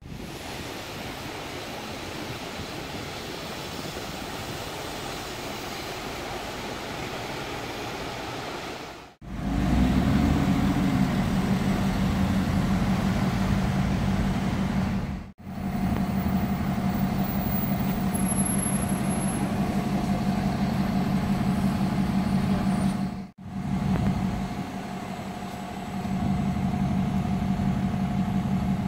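Street traffic on a wet road: an even hiss of passing tyres. About nine seconds in, a nearby car engine takes over, running at low revs with a steady low drone. The sound breaks off sharply three times, and the drone fades briefly before returning near the end.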